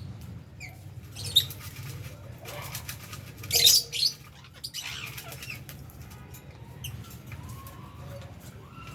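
Flock of lovebirds and budgies chattering, with a few loud, sharp, high chirps, one about a second and a half in and a cluster about three and a half seconds in, over a low steady hum.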